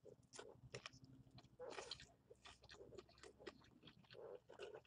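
Faint, close-up sounds of a person biting into and chewing a fried chicken drumstick: irregular soft mouth clicks and wet crackles.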